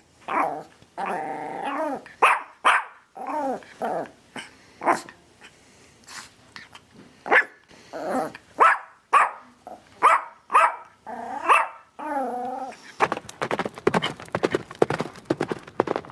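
A dog barking in separate barks of varying pitch, ending in a longer wavering call. About thirteen seconds in, this gives way to the fast, busy clatter of horse hooves.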